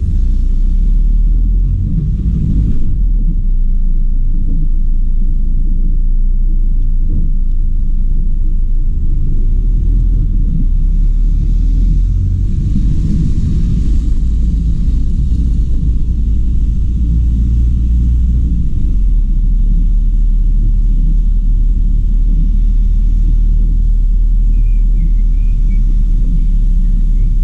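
Car driving, with a loud, steady low rumble of road and engine noise. A few faint high chirps come near the end.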